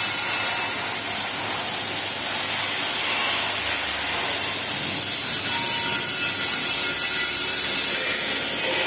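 Cutting torch on a portable track-type cutting machine making a steady hiss as it burns through 35 mm thick steel plate, with a faint thin whistle through the first half.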